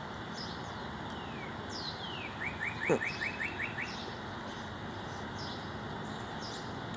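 A songbird sings a short phrase: a few descending whistled notes, then a quick trill of about eight rising notes lasting just over a second, over a steady background hum. A brief, louder falling tone sounds about three seconds in.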